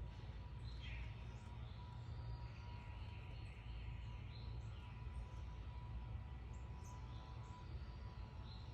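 Small songbirds chirping and calling at intervals, with a falling call about a second in and a warbling phrase a little later. Beneath them runs a steady low rumble and a faint steady hum.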